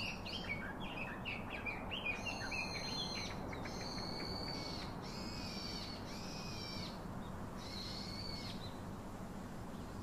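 Birds calling: a quick run of short, falling chirps for the first two seconds, then about five longer, even-pitched calls roughly a second apart, over a faint steady hiss.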